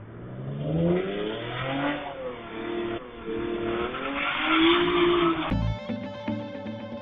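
Car engine revving hard, its pitch rising and falling in several swells, with tyre noise. About five and a half seconds in, it cuts off abruptly and music takes over.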